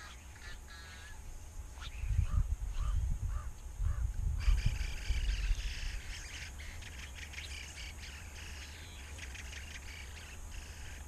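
Wild birds chirping and calling, with wind buffeting the microphone from about two to five seconds in. About halfway through, the birdsong becomes a denser, rapid high chatter.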